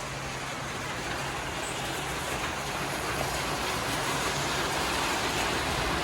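Steady rain, a dense even hiss with a low rumble underneath, growing slightly louder.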